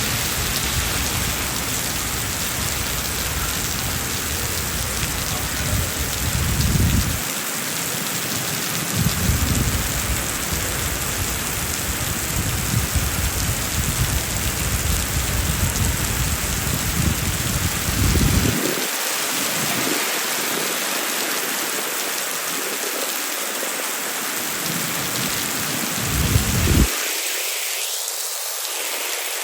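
Heavy rain falling steadily, a dense even hiss, with low rumbling swells underneath now and then that die away near the end.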